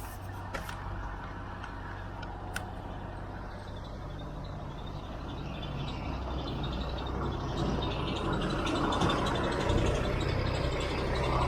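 Heavy truck's diesel engine running steadily, growing louder over the last few seconds, with two faint clicks in the first few seconds.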